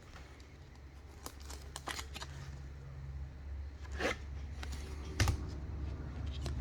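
Trading cards being handled and slid through by hand: light scrapes, rustles and a few sharp clicks at irregular moments, over a low steady hum.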